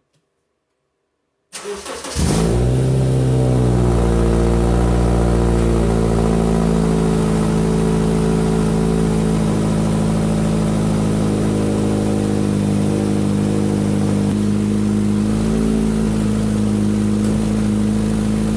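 Car engine cranked and catching about a second and a half in, then running steadily at idle with a loud exhaust note. The noise comes from the exhaust, where the hanger bracket broke off the rusted resonator pipe.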